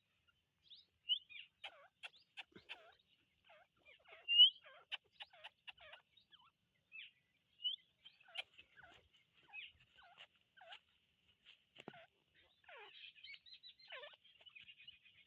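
Teetar partridge giving short, high chirps and clucks at irregular intervals. The calls grow denser near the end, and one call about four seconds in is much louder than the rest.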